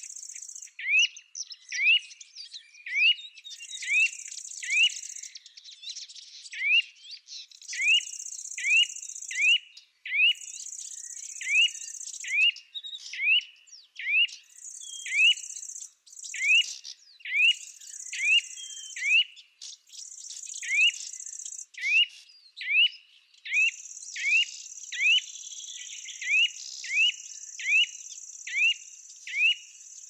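A songbird repeating a short, rising chirp about once a second, over insects buzzing high in bouts of a second or so. The buzzing runs without a break for the last several seconds.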